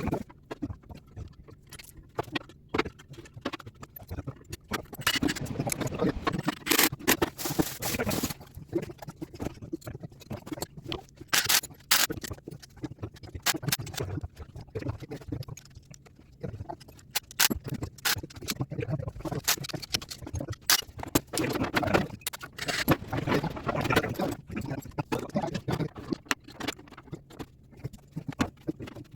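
Hands and tools clicking, knocking and scraping on the metal parts of an HVAC blower motor assembly during installation, in irregular bursts that are busier twice along the way.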